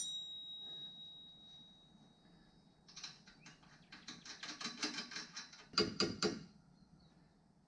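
Metal hand tools working on suspension hardware. It opens with a sharp metallic clink that rings on a high note for a couple of seconds. Then comes a run of rapid, evenly spaced clicks, about five a second, and three louder clicks near the end.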